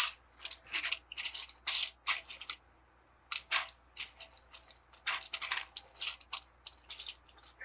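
Loose plastic Lego pieces rattling and clicking as they are sifted and picked out by hand, in a run of short scratchy bursts with a brief pause about three seconds in.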